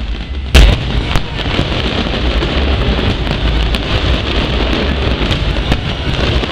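Fireworks display: a loud bang about half a second in and a smaller one a little after, then dense, continuous crackling like heavy rain over a low rumble.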